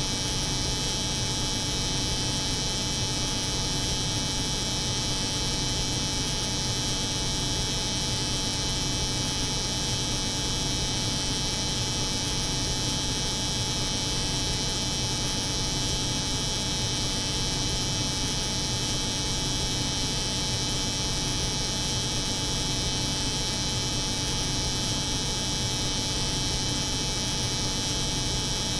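Steady, unchanging drone of an electric hair clipper buzzing, layered over the hum of a cold room's refrigeration unit.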